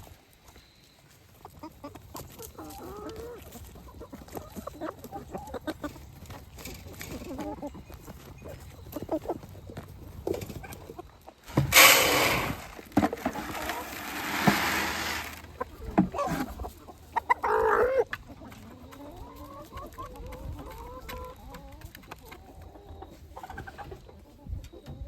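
Chickens clucking with many short calls throughout. About halfway through, a loud even rushing hiss lasts about four seconds.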